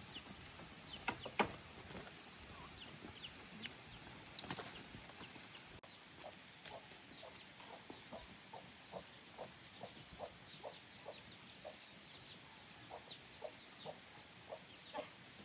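Domestic fowl clucking, faint: a long run of short calls, about two a second, after a few sharp knocks in the first seconds.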